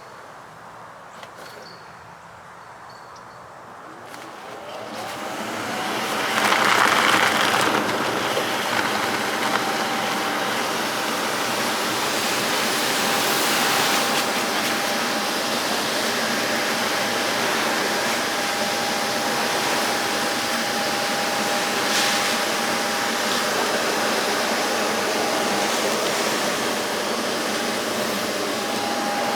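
An electric air-moving motor spins up about five seconds in, its pitch rising, then runs steadily with a whining tone over a loud rush of air.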